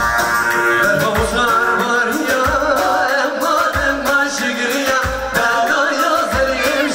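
Kurdish folk music: a singer over melodic instruments, with a deep drum beat about once a second.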